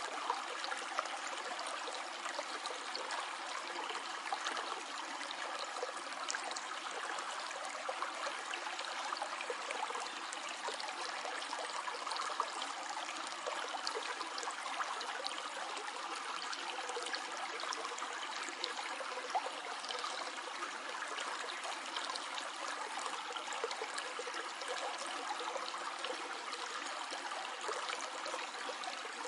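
A stream flowing steadily: continuous running water with many small trickles and splashes.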